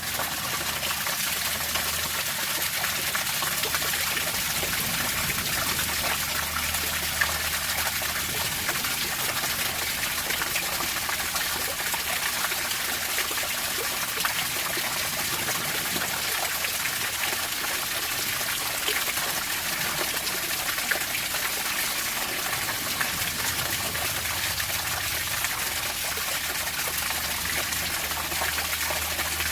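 Water running and trickling steadily, a continuous splashing rush with no break.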